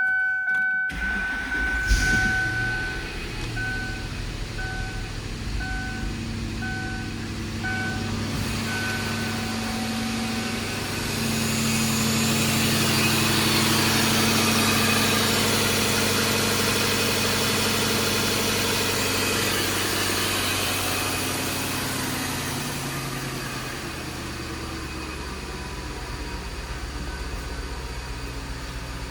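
2002 Ford Thunderbird's 3.9-litre V8 started about two seconds in and running, while the car's warning chime beeps about once a second for the first several seconds. From about eleven seconds the engine runs louder for around ten seconds, then settles back to a quieter, steady idle.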